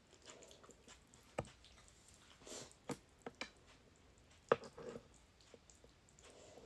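A person eating instant ramen noodles: soft wet chewing and squishing, broken by a few sharp clicks, the loudest about four and a half seconds in.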